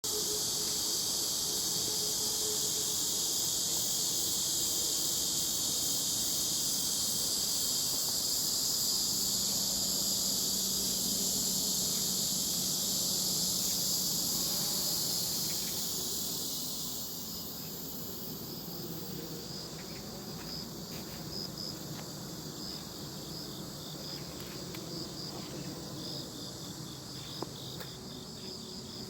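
A dense, steady chorus of insects, loud for the first half and thinning out about halfway through to a fainter, pulsing chirping.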